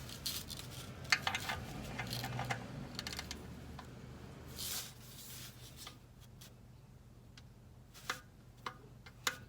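Light clicks and rubbing of parts and tools being handled, with a short rustle about halfway through. The clicks come thick at first and then only now and then.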